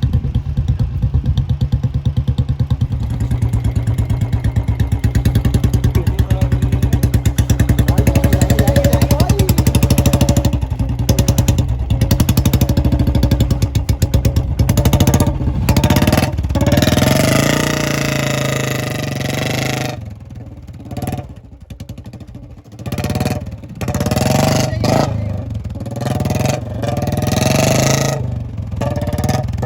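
Royal Enfield Bullet 350's single-cylinder engine running with a fast, even thump. About halfway through it revs up, then rises and falls unevenly while the bike is stuck in mud.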